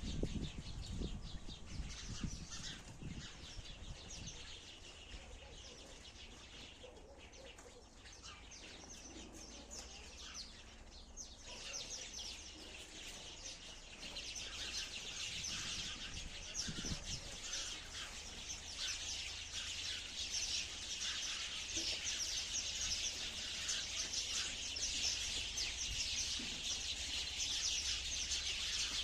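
Sparrows chirping: a dense chatter of many short overlapping chirps, thinner at first and growing busier and louder about halfway through.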